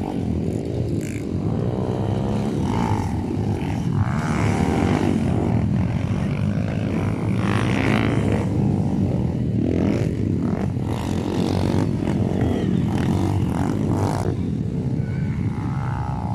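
Motocross motorcycle engines running and revving, their pitch rising and falling as the bikes go by, over a steady low rumble.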